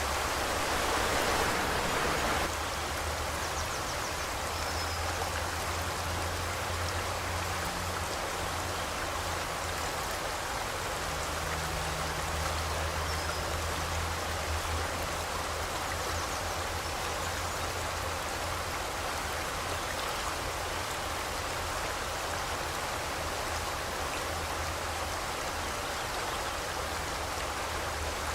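River water flowing over rocks in a steady rush, slightly louder for the first couple of seconds, then even.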